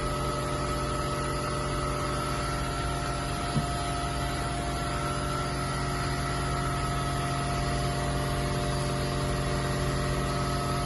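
Steady mechanical hum of shop machinery, several fixed tones over a low drone, with one brief knock about three and a half seconds in.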